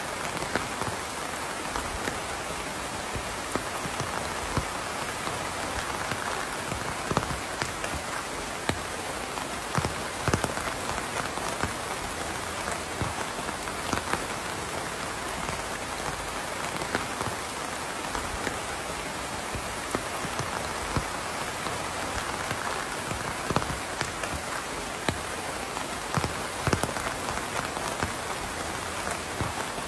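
Steady rainfall on a surface, a continuous hiss with many distinct drops landing.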